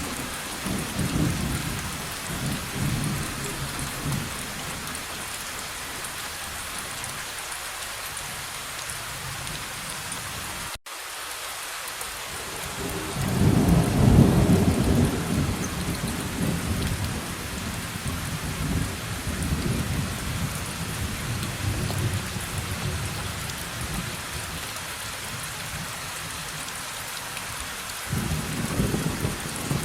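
Steady rain falling with rolling thunder. The thunder rumbles low at the start, swells into the loudest peal about halfway through, and rumbles again near the end. The sound cuts out for an instant about eleven seconds in.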